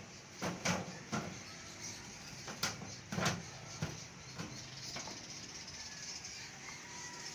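Several sharp knocks and clatters at irregular intervals, most in the first half, like objects being handled or set down, then only a steady low background.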